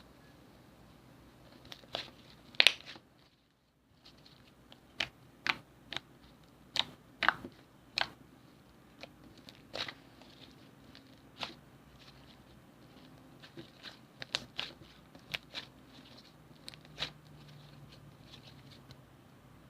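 Slime being squeezed and poked by hand, giving irregular sticky clicks and pops. The sound cuts out completely for about a second near the start.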